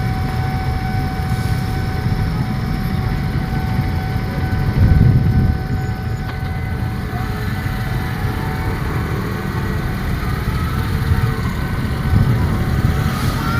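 A train rumbling low and steady, with several steady high tones above the rumble. The rumble surges louder briefly about five seconds in.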